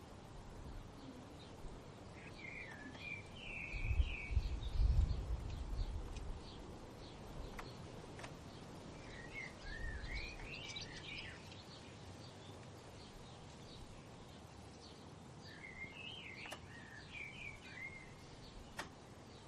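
A songbird singing three short warbling phrases, several seconds apart, over a steady outdoor hiss. A low rumble of wind swells about four seconds in.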